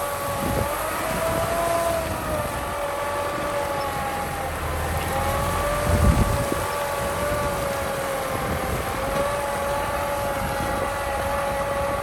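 Kubota M6040 SU tractor running under load while plowing, with a steady high whine that wavers gently in pitch over a low rumble. A louder low bump comes about six seconds in.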